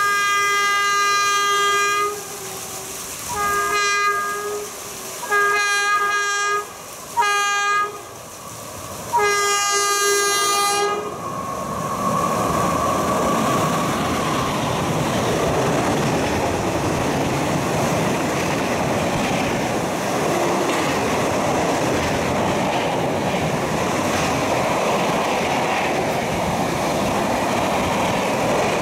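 Electric locomotive horn sounding five blasts as the train comes in, the first and last held longer. From about eleven seconds in, the train's passenger coaches run past at speed with a steady clattering rumble of wheels on rail.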